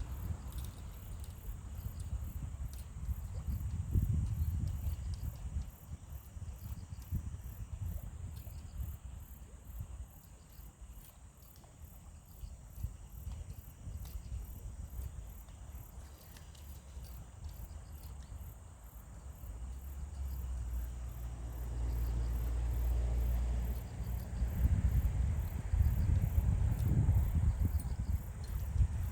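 Insects chirping in a steady, high-pitched pulsing rhythm of a few chirps a second, over a low rumble that grows louder over the last several seconds.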